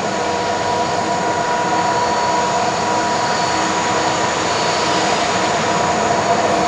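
Jet engines of an Airbus A330-200, Pratt & Whitney PW4000-series turbofans, running with a steady whine over a broad roar and growing slowly louder.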